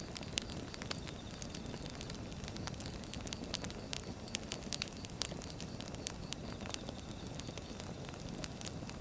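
Firewood burning: a steady low rumble of flames with frequent sharp, irregular crackles and pops from the wood.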